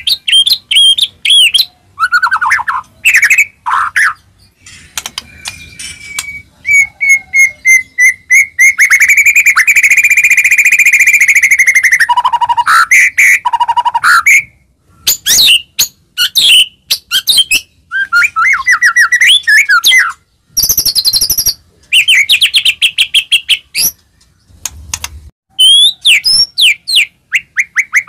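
White-rumped shama (murai batu) in loud, vigorous song: varied whistled phrases and quick chatters, with a long buzzing rattle held for about three seconds near the middle.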